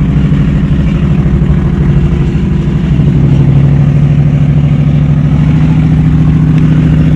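2004 Ford F250 pickup's engine idling steadily, heard through its exhaust.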